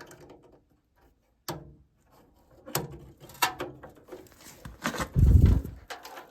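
Handling noise while working on the indoor HVAC unit: a few sharp clicks and knocks, then a louder, heavy low thump about five seconds in.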